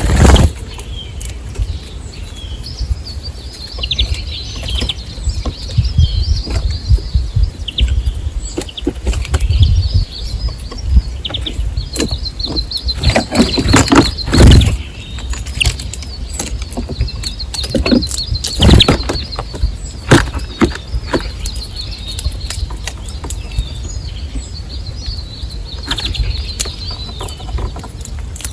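Small birds chirping in high, busy twitters, with several loud sudden flutters of wings, the biggest about halfway through, as birds fly in and out.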